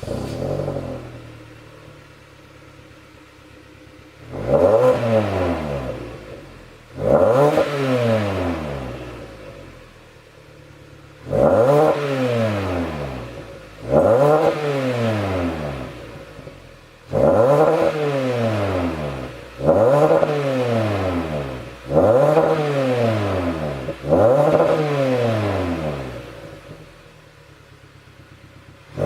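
Hyundai YF Sonata's four-cylinder engine through an aftermarket dual-muffler exhaust tuned for a deep tone. It flares up, settles to idle, then is free-revved eight times, each rev rising sharply and falling back slowly to idle.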